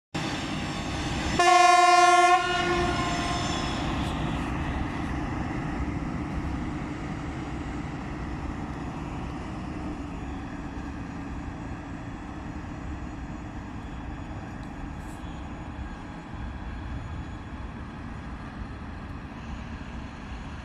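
Railway work vehicle sounding one horn blast of about a second, a single pitch, then its engine and wheels on the rails running steadily and slowly fading as it moves on.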